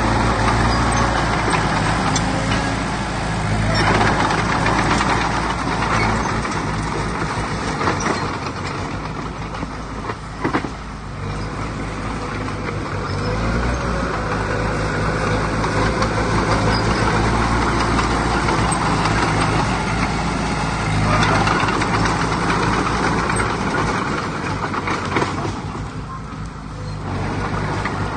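Diesel engine of heavy earthmoving machinery running under load, the engine note rising and easing off several times.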